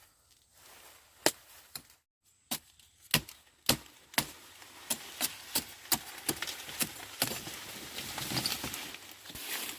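A blade chopping sugarcane stalks: a series of sharp chops, about one every half second at first, then quicker, with leafy rustling building in the last couple of seconds.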